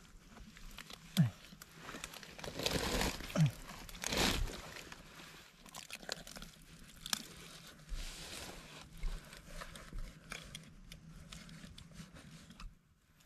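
Hands digging and rummaging through wet leaf litter and mud in a mud crab's burrow, with irregular crunching and crinkling that is busiest a few seconds in.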